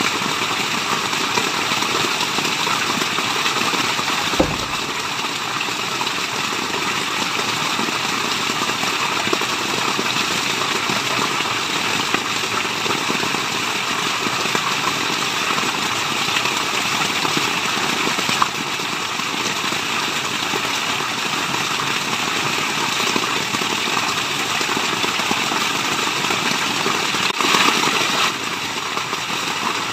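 Steady rushing water of a waterfall, an even full-range roar, with a brief low thump about four seconds in.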